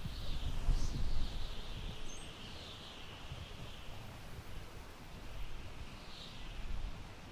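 Wind gusting through tall grass, with low rumbling gusts strongest in the first second or so, then a steadier rush. A bird chirps briefly about two seconds in.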